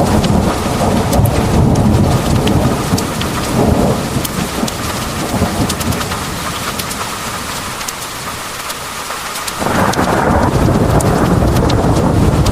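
Heavy rain pouring, with sharp drop ticks over a deep rolling thunder rumble. The rumble eases off midway and comes back suddenly near the end.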